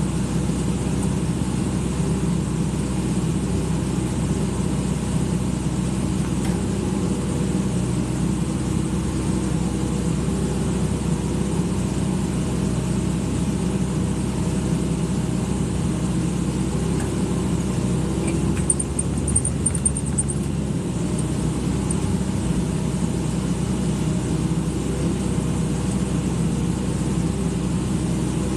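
Excavator's diesel engine running steadily at an even speed, with a brief faint high-pitched chirping about two-thirds of the way through.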